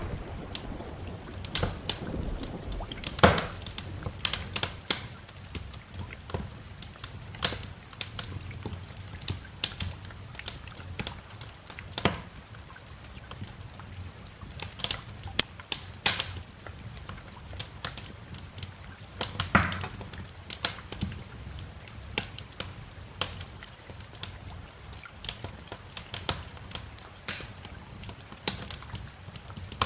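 Wood fire in a fireplace crackling, with irregular snaps and pops over a steady low background. A low rumble fades away in the first second or so.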